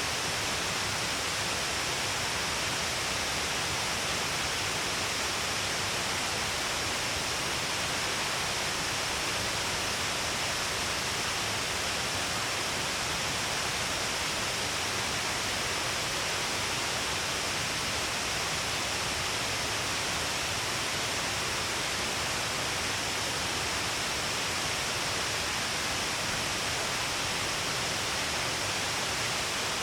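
Steady, unbroken rush of a waterfall: many streams of water falling down a cliff face, a dense even hiss with no single splash standing out.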